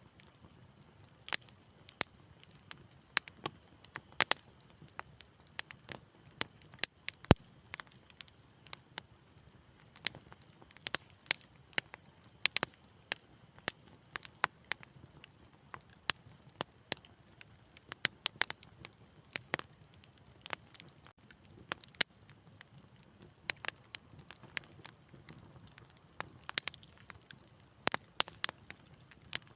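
Wood fire crackling in a fireplace: irregular sharp pops and snaps, several a second at times, over a faint low hiss, with one louder pop about seven seconds in.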